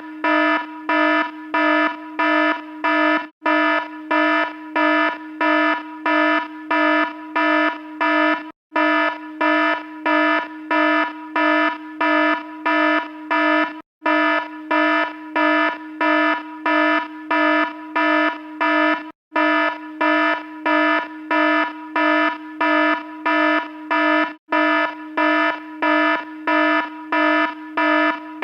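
Alarm sounding: one pitched tone pulsing rapidly, about three times a second. It repeats as a loop that breaks off for an instant about every five seconds.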